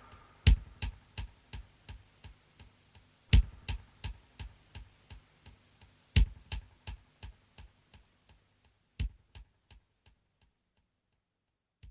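Sharp ticks with a fading echo: four loud ticks about three seconds apart, each trailed by quicker, weakening repeats, the whole pattern dying away near the end.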